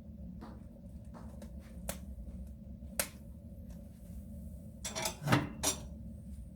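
Wood fire burning in a soapstone stove: a low steady rumble with scattered crackles and pops, and a louder cluster of cracks about five seconds in.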